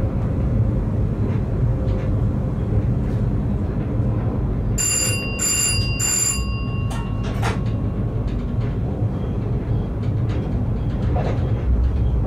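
Electric passenger train running on the rails, heard from the driver's cab: a steady low rumble of wheels and running gear. About five seconds in, three short, high, bell-like beeps sound in quick succession.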